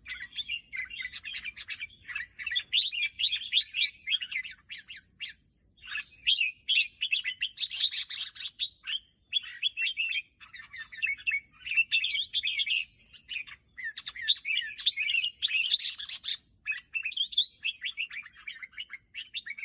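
Red-whiskered bulbul singing: quick runs of bright chirping phrases with short pauses between them, and two louder bursts about eight and sixteen seconds in.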